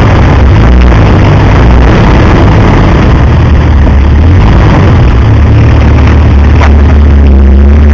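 A four-wheel drive's engine running as it crawls over rocks in a creek bed. It is recorded loud and distorted, with a steady low hum.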